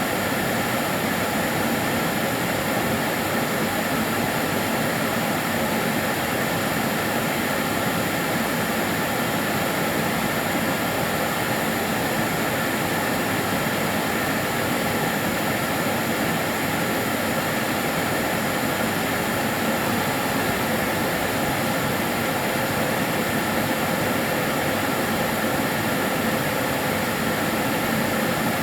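Karcher DS 6 Premium water-filter vacuum cleaner running continuously, a steady, even whooshing hum that never changes.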